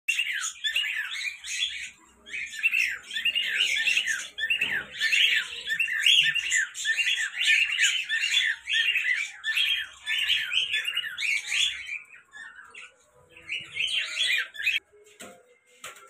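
Cage birds chirping and squawking in a dense, rapid run of short high calls that thins out and stops near the end, followed by a couple of sharp knocks.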